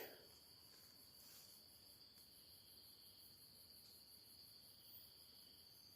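Faint, steady chirring of night insects such as crickets: a continuous high trill with a fast even pulse, otherwise near silence.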